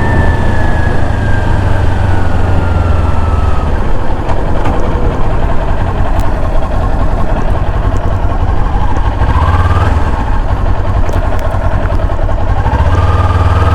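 Motorcycle engine running at a steady low note, with a higher whine that slowly falls in pitch over the first few seconds.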